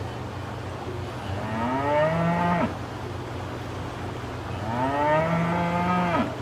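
A cow mooing twice, each moo about a second and a half long, rising in pitch and cutting off abruptly, over a steady low hum.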